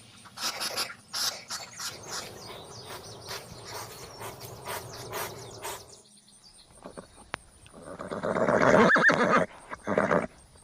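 A horse neighing, loudest about eight to ten seconds in, preceded by several seconds of irregular clicks and scuffling.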